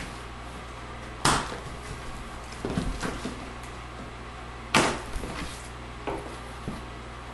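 Cardboard packaging being handled: two sharp knocks about three and a half seconds apart, with lighter taps and scuffs between and after.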